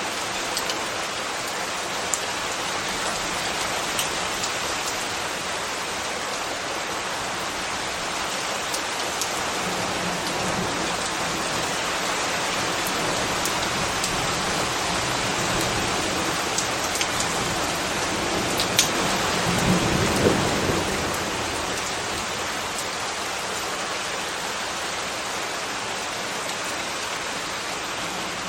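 Steady rain, an even hiss with scattered sharper drip clicks. About two-thirds of the way through, a low rumble swells for a couple of seconds and fades.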